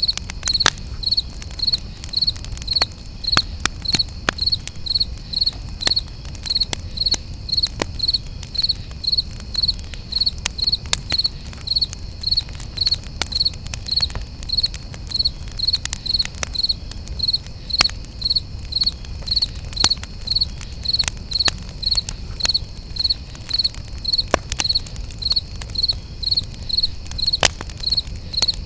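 Crickets chirping in a steady rhythm, about two high chirps a second, over the sharp irregular pops and crackles of a campfire and a low rumble.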